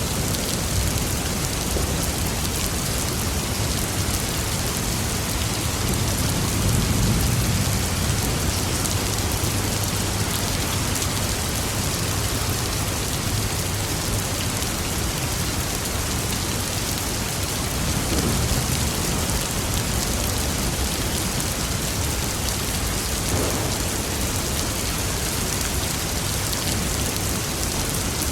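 Steady heavy rain falling. A low roll of thunder swells about six seconds in, and a fainter rumble follows around eighteen seconds.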